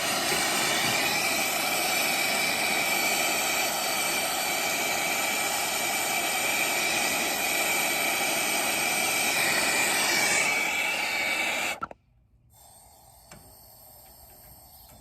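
Brazing torch flame burning with a steady, loud hiss while heating copper refrigerant line joints. The torch is shut off abruptly about twelve seconds in.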